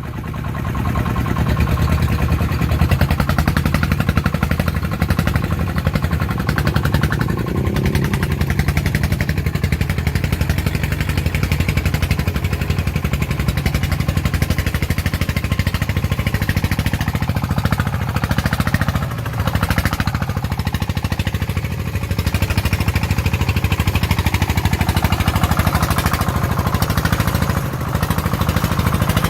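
Single-cylinder diesel engine of a farm vehicle running steadily with a fast, even chugging beat.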